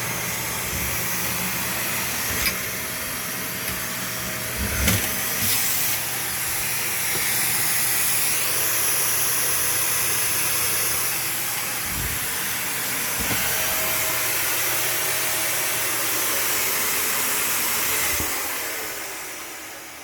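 Vacuum cleaner running with a steady hiss of air drawn through a long dryer-vent cleaning hose, with a few scattered knocks. Near the end the motor winds down and the hiss fades away.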